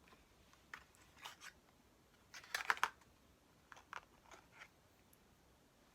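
Short, soft clicks and crackles of lip product being applied and handled close to the microphone, with the loudest cluster about two and a half seconds in.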